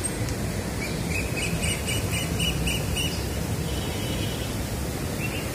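A bird calling a quick run of short, high notes, about four a second, over a steady outdoor hiss.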